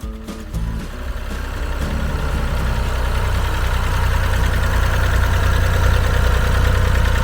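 Engine of an antique farm tractor idling: a steady low running note that grows louder over the first few seconds, then holds steady.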